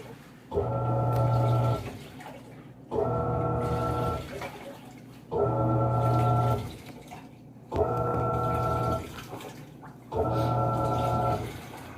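Panasonic 14 kg washing machine agitating during its rinse: the motor hums in even pulses of about a second and a half, one every two and a half seconds, with water sloshing in between.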